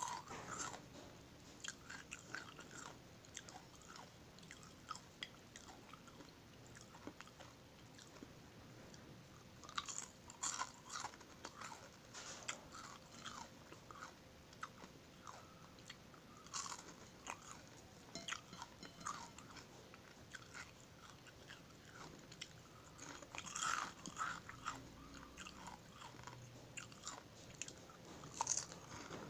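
Crispy fried dilis (dried anchovies) being bitten and chewed close up: a run of short, sharp crunches coming in irregular clusters.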